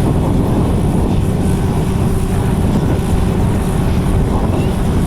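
Steady, loud rumbling noise of wind on the microphone, with a faint steady engine drone underneath.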